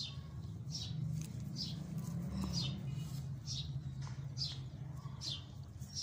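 A bird chirping over and over, one short, slightly falling high chirp about once a second, over a steady low hum.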